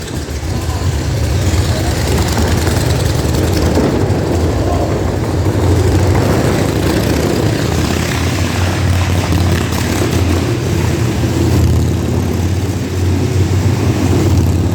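Motorcycle engine running at a steady pitch as the bike circles the steep wall of the motorbike roulette drum, a loud even low drone.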